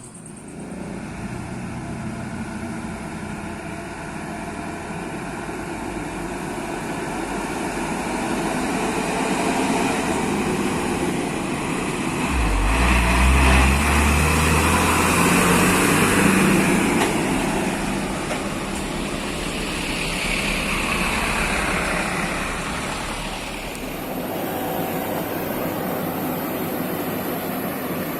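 Road traffic noise. A vehicle passes close about halfway through, swelling to its loudest with a deep engine rumble and then fading.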